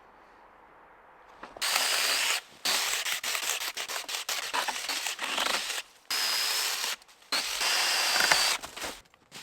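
Hand saw cutting through wood, with rasping strokes in runs broken by short pauses, starting a couple of seconds in.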